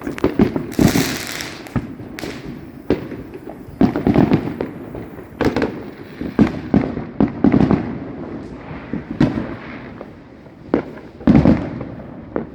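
Consumer fireworks and firecrackers going off in an irregular string of bangs and pops, with a short hiss about a second in. The heaviest bangs come around the middle and near the end.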